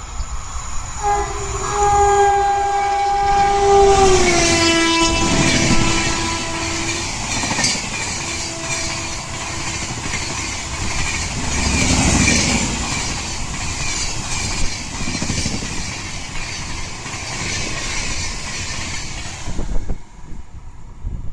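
Indian Railways express train passing at speed: the locomotive's horn sounds one long chord that drops in pitch as it goes by, then a short blast, while the coaches rush past with rhythmic wheel clatter. The sound cuts off suddenly near the end.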